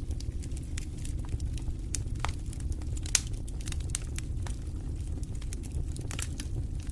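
Wood fire in a fireplace crackling: a steady low rumble of the flames under frequent sharp pops and snaps, with one louder pop about three seconds in.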